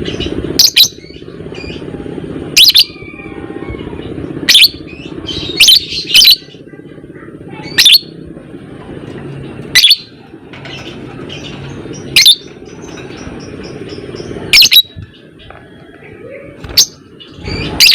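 Lovebird giving short, sharp, shrill calls, about a dozen of them spaced irregularly one to two seconds apart, over a steady low background noise.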